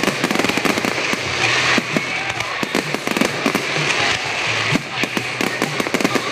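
Fireworks going off in rapid succession, a dense run of pops and crackles with no pause.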